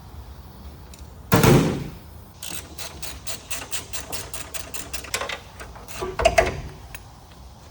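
Mechanical workshop sounds: a loud knock, then a run of rapid, even clicks at about six a second, then another loud knock near the end.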